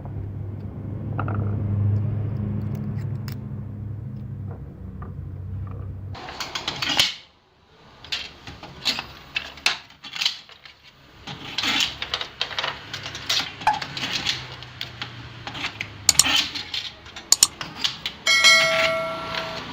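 A low motor hum for about six seconds that cuts off suddenly, followed by many sharp metallic clinks and taps of small metal parts being handled, with a brief ringing metallic tone near the end.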